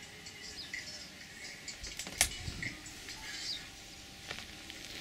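Small garden birds chirping and twittering in short calls, with a sharp click about two seconds in and a fainter one near the end.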